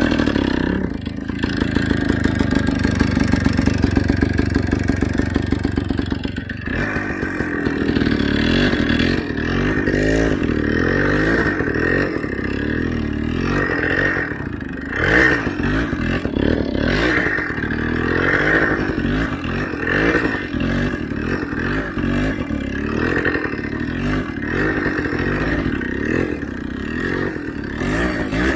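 Motorcycle engine running at steady revs, then from about seven seconds in revving up and down again and again, roughly once a second.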